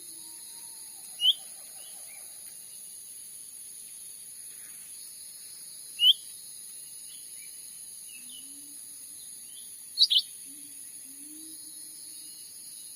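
Cucak ranting calls: short, sharp rising chirps, one about a second in, another around six seconds in, and a quick double near ten seconds, over a steady high insect drone.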